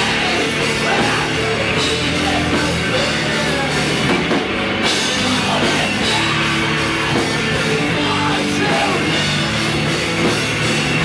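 Loud rock music, with a band and drum kit playing steadily.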